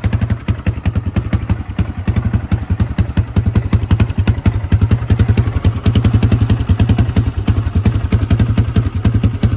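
1998 Yamaha Grizzly ATV's single-cylinder four-stroke engine idling steadily with an even exhaust pulse, warmed up after about 20 minutes of running. The exhaust goes through a rusted muffler that has just been patched over its holes.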